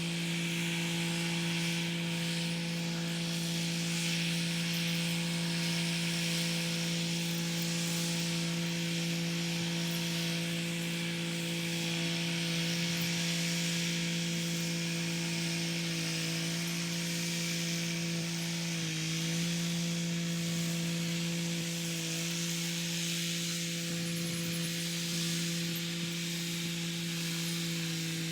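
Kubota SL35 tractor's diesel engine running at a steady working speed while it drives the rotary tiller, a steady droning tone with a rushing hiss above it. The engine note sags briefly a few times in the second half as it takes load.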